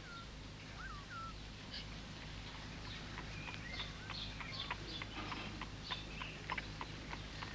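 Faint chirping of small birds: a few short rising-and-falling chirps at first, then many brief scattered chirps, over a low steady hum.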